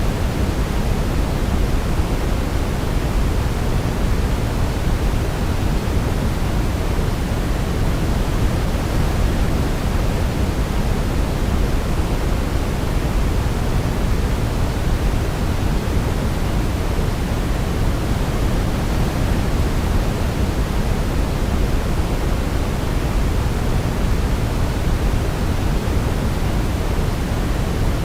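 Steady sleep white noise, a constant even hiss weighted toward the low end, with no melody heard.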